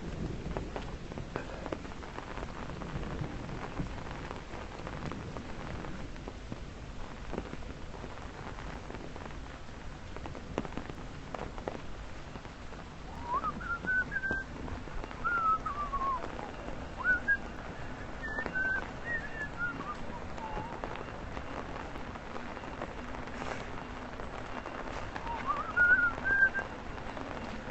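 Steady rain falling, with whistled gliding notes in short rising and falling phrases from about 13 to 20 seconds in and again near 25 seconds.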